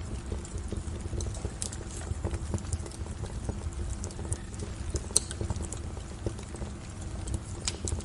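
Wood fire crackling in a fireplace: irregular sharp pops and snaps over a steady low rumble of the burning logs, with one louder pop about five seconds in.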